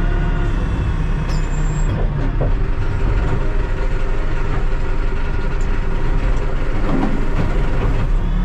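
Diesel engine of a Terex TLB-815 backhoe loader running steadily under way, with a few light knocks from the machine.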